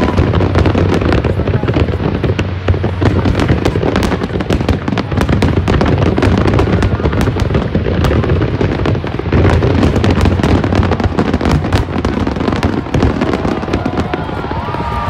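Finale barrage of aerial fireworks: many shells bursting at once in a dense, continuous run of bangs and cracks.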